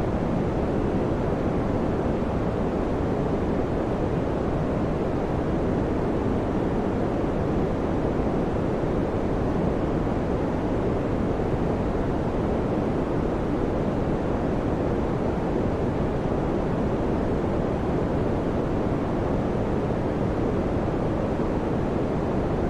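Electric fan running steadily: an even, low whooshing hum of moving air with no changes.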